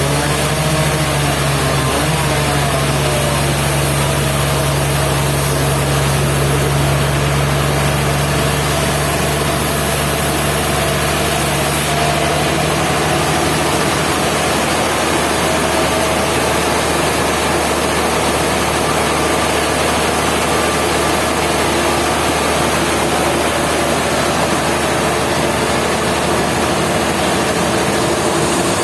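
Sawmill machinery running steadily at full volume, with a low engine hum that fades about halfway through.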